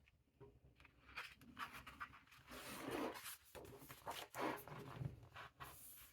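A picture book being handled and its pages turned: faint, irregular rustling and scraping of paper, with a soft bump about five seconds in.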